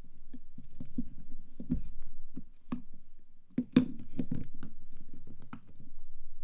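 Hands unpacking soap: soft rustling of the packaging, broken by a string of sharp taps and clicks, the loudest just past the middle.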